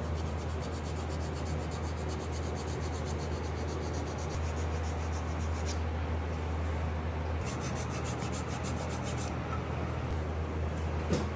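Carving tool working wood, a quick even run of scratchy strokes over a steady low hum, pausing briefly a little past the middle.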